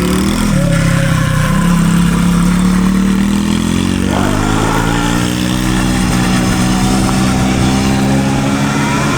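Dirt bike engine running under throttle while riding. Its pitch dips early, then climbs steadily for several seconds as the bike accelerates.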